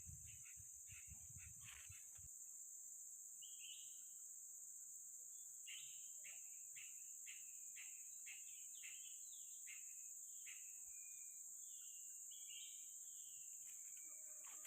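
Faint outdoor nature ambience: a steady high-pitched insect drone, with runs of short, quick chirping calls and a few gliding calls over it. A low rumble, likely wind or handling on the microphone, runs through the first two seconds.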